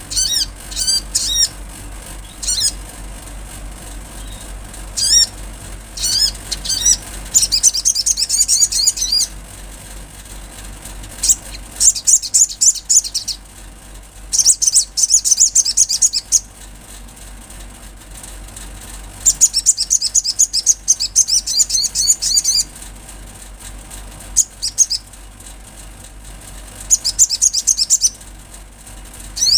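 Olive-backed sunbird singing: thin, high-pitched chirps and fast twittering trills in bursts of one to three seconds with short pauses between, over a steady low hum.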